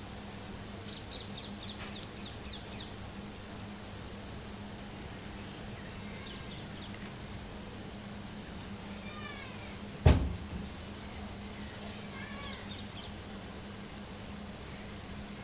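Small birds chirping in several short runs of high, falling notes over a steady low hum. About ten seconds in there is a single loud knock.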